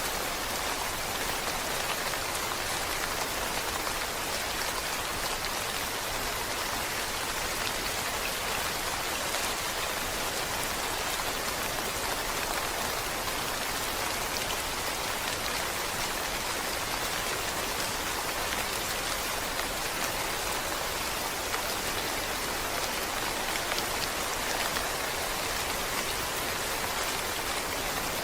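Steady rain falling: an even hiss of many drops that holds the same level without let-up.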